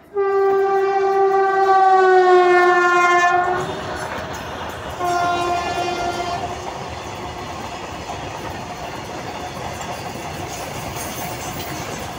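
Indian Railways WAG-9 electric locomotive horn sounding one long blast that falls slightly in pitch. About five seconds in it gives a second, shorter blast, a little lower. Then comes the steady rolling noise and clatter of the goods train's covered wagons running past.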